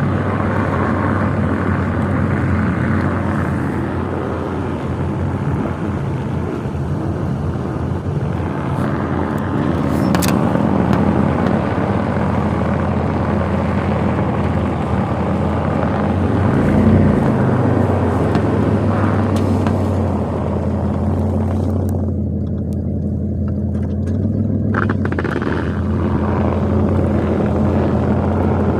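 Steady low drone of a running vehicle engine, with a constant rushing noise over it. About halfway through, the pitch briefly swells and dips.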